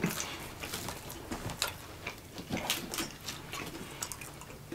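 People chewing chicken nuggets with wet mouth clicks and smacks, irregular, several a second.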